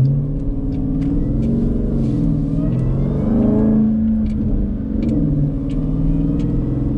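Jeep Grand Cherokee Trackhawk's supercharged 6.2-litre V8 engine pulling the car along, its pitch rising and falling as the revs climb and the gears change.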